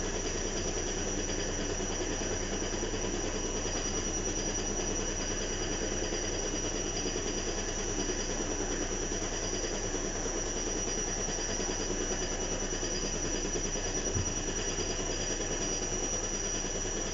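Washing machine running steadily, a constant mechanical hum with a thin high-pitched whine over it. One brief low knock about two-thirds of the way through.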